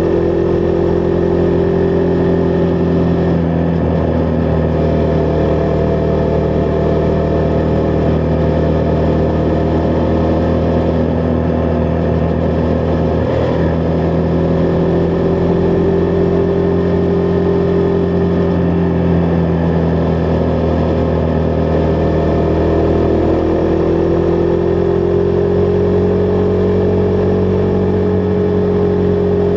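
Husqvarna Vitpilen 401's single-cylinder engine running while riding at a steady pace, its pitch mostly even with small shifts, rising slightly a little after two thirds of the way through.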